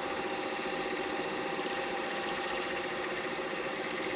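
Midi lathe running at a steady speed, a constant motor hum.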